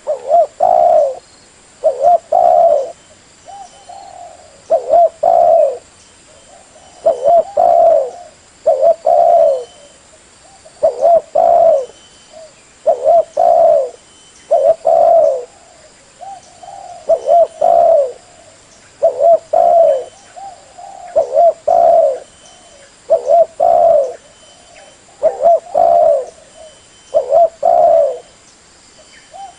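Spotted dove (tekukur) cooing over and over, a low phrase of a few coos about every two seconds, with fainter short coos between some phrases.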